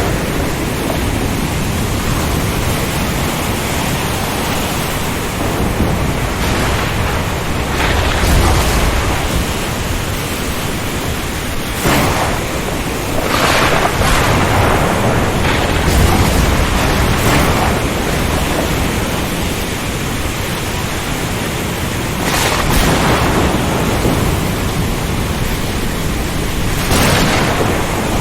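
Storm at sea: a steady rush of wind, rain and surf, with low rolling thunder rumbles about eight and sixteen seconds in and several brief louder surges.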